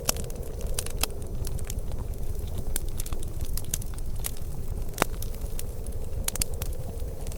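Wood fire crackling, with frequent sharp pops and snaps, one louder pop about five seconds in, over a steady low rumble.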